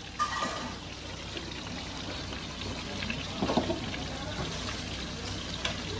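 Bánh xèo (Vietnamese rice-flour crepes) sizzling steadily as they fry in woks with a lot of oil. Two short knocks stand out, one near the start and one a little past the middle.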